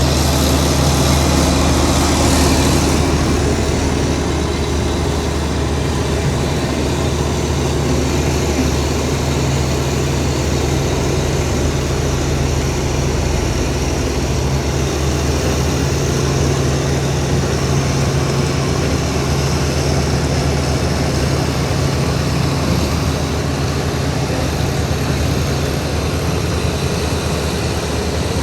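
Heavy diesel engine of earthmoving machinery running steadily at a constant pitch, with a higher hiss over roughly the first three seconds.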